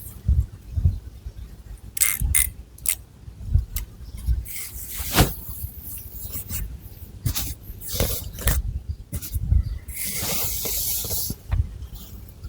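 Long fingernails scratching and rustling through long, thick hair on the scalp, in irregular clicks and short scrapes, with a longer scratching stroke about ten seconds in.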